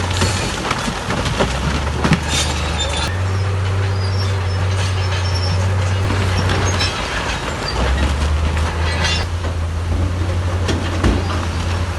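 Crawler bulldozer working under load: the diesel engine hums low and steps up and down in pitch, with metallic squealing and clanking from the tracks and a few sharp knocks.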